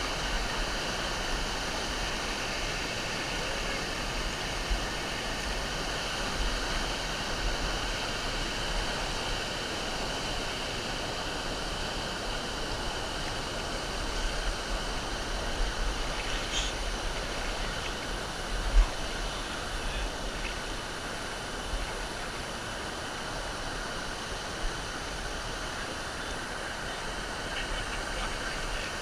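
Steady roar of a large waterfall, its water pouring and splashing, with some low wind rumble on the microphone and a sharp knock about two-thirds of the way through.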